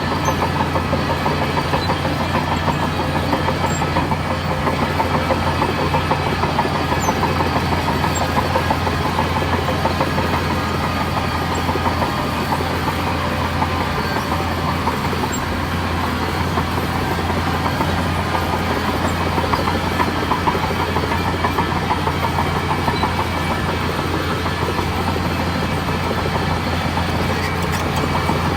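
Bulldozer's diesel engine running steadily, with a fast continuous rattle over the low engine hum.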